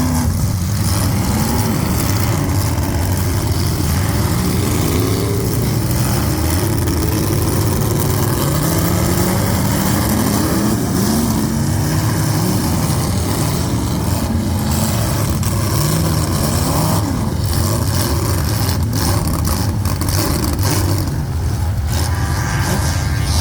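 Several full-size demolition derby cars' engines revving at once, their pitches rising and falling over one another on a steady rumble, with scattered knocks in the second half.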